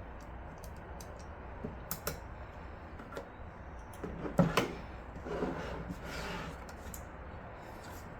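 Light clicks and knocks of computer hardware being handled and fitted, with a louder clatter about four and a half seconds in, followed by a brief rustle.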